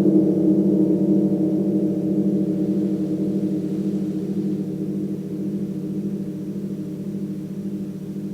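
A gong left ringing with a cluster of low tones that slowly die away, wavering with a steady pulse; no new strike.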